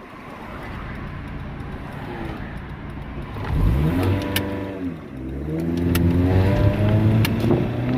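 Honda D16 four-cylinder engine in a 1991 Civic, heard from inside the car: it runs quietly at first, then about three and a half seconds in it revs up hard under acceleration. The pitch climbs, falls at a gear change, and climbs again. A few sharp clicks come through during the pulls.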